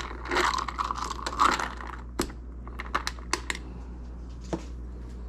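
Ice clinking against a tall glass as a drink with club soda is stirred lightly: a stretch of rattling and clinking, then a few separate sharp clinks that die away.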